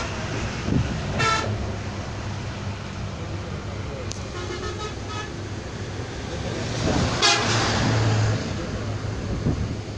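Several short, high horn toots over a steady low vehicle rumble: one about a second in, a few more around the middle, and a louder one past seven seconds.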